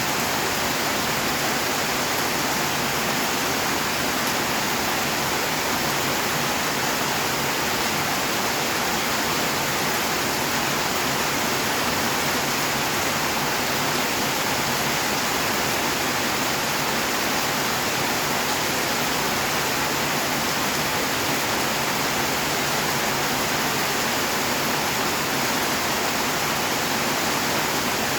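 Steady rainfall, a dense even hiss of drops with no single drops standing out.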